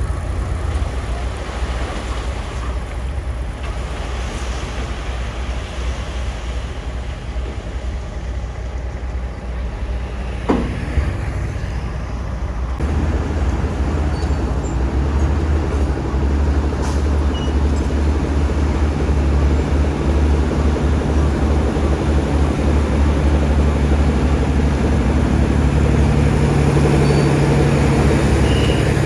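Komatsu bulldozer's diesel engine running under load, its deep rumble growing louder about halfway through and rising further near the end. A brief falling squeal sounds just before the engine gets louder.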